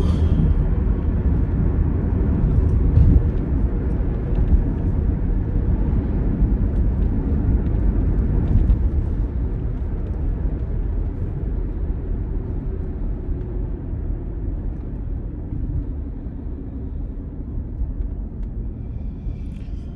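Road and engine noise inside a moving car's cabin: a steady low rumble that gradually gets quieter through the second half.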